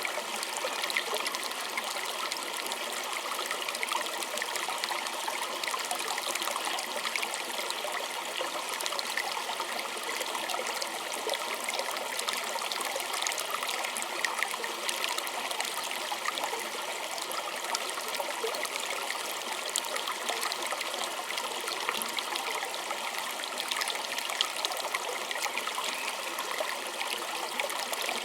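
A small stream trickling and babbling over stones: a steady, even rush of running water with fine bubbling detail.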